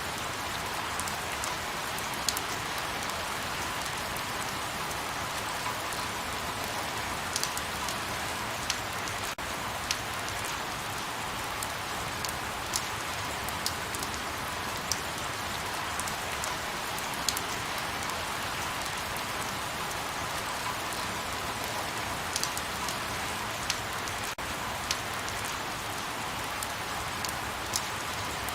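Light rain falling steadily, an even hiss with scattered individual drops ticking sharply on a nearby surface every second or so.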